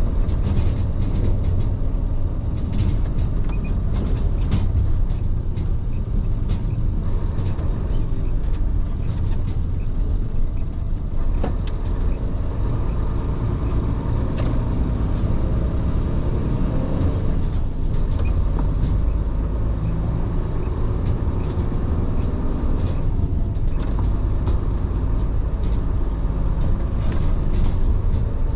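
Heavy truck driving at steady speed: constant low engine and road rumble, with scattered light clicks and rattles.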